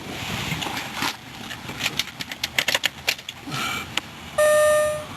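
A few light clicks and knocks, then an electronic warning chime: a steady beep-like tone that sounds twice, the second starting right at the end.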